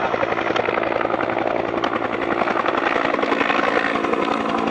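Helicopter rotor blades beating in a rapid, steady chop.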